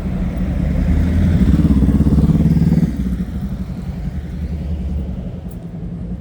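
A motor vehicle's engine running close by, growing louder over the first couple of seconds, then dropping off sharply about three seconds in and leaving a lower steady rumble.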